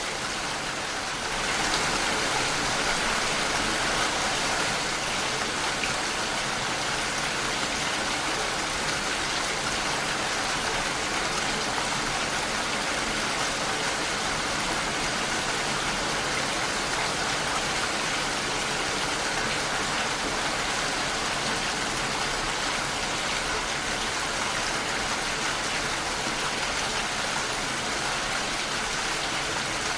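Steady rain against a window pane, an even hiss of many small drops that grows a little louder about a second in.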